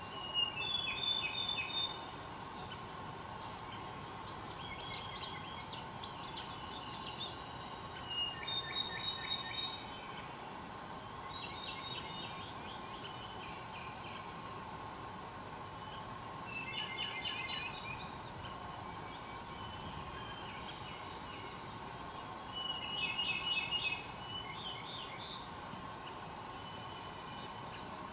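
Wild songbirds singing in short bouts every few seconds, each a quick run of rapid trills and sharp chirping notes. A faint steady hum runs underneath.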